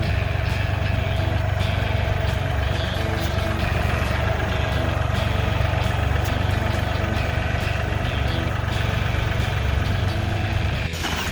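A vehicle's engine running at a steady speed, with frequent irregular rattles and knocks over it.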